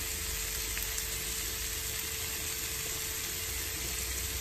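Diced chicken breast with red onion and garlic sizzling steadily in a frying pan, with a faint steady hum underneath.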